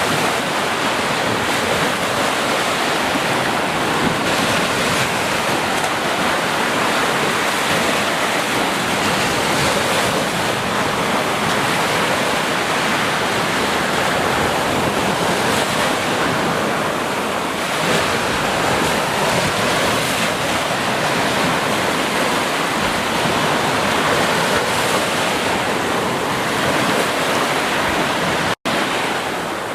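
Ocean surf washing continuously onto a beach, a steady rushing wash that swells and eases slightly, with a split-second dropout in the sound near the end.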